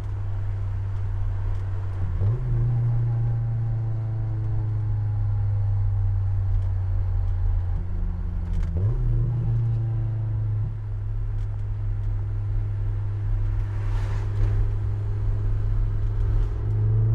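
Honda S2000's four-cylinder engine running steadily while driving, its pitch stepping up sharply about two seconds in and again about nine seconds in. The engine has a freshly replaced timing chain tensioner.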